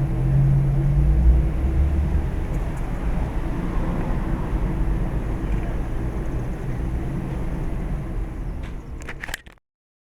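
Steady low outdoor rumble with a faint constant hum, ending in a few sharp clicks before the sound cuts off abruptly.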